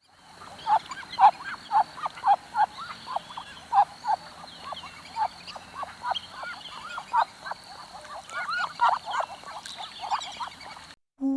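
A dense chorus of many short, overlapping animal calls, several a second, over a steady hiss; it cuts off abruptly near the end.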